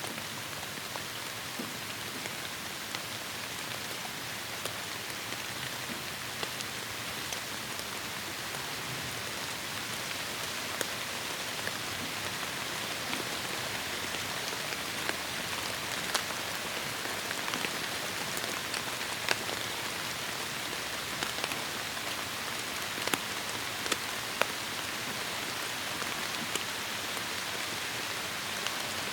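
Heavy rain falling in a forest: a steady hiss of rainfall on leaves, dotted with sharp, louder single drops hitting nearby.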